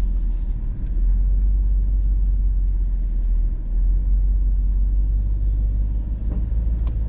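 Hummer H2's V8 engine running, heard from inside the cabin as a steady low rumble, with a couple of faint knocks near the end.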